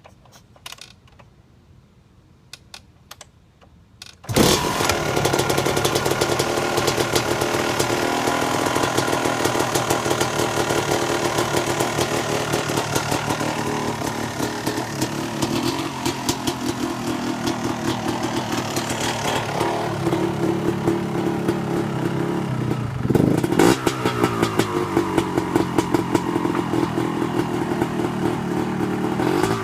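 Freshly rebuilt Yamaha YZ250 two-stroke dirt bike engine firing on a cold start about four seconds in, then running, with a short burst of revving about two-thirds of the way through.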